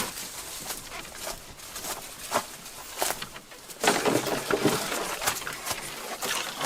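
Footsteps on a forest portage trail, irregular steps about once a second.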